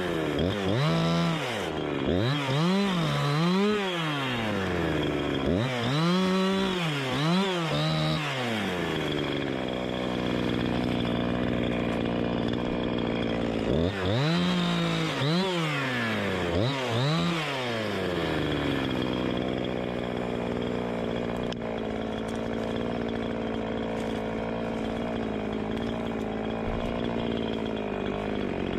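Gas chainsaw engine revved up and down over and over for the first several seconds and again around the middle, otherwise held at a steady high speed.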